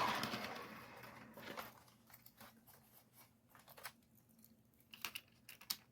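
Faint rustling that fades out, then a few scattered light clicks of plastic HO-scale model train cars being handled and set down.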